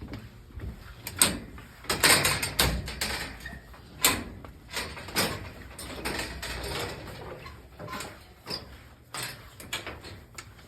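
Irregular knocks and clanks on steel, a dozen or more spread over several seconds, with a louder clattering rush about two seconds in.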